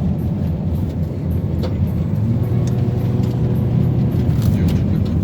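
Car heard from inside the cabin while driving: a steady low drone of engine and road noise, with a steady hum joining about two seconds in.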